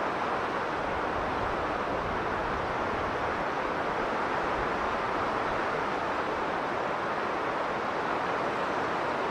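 Strong blizzard wind blowing steadily, a dense rushing noise that swells and eases slightly.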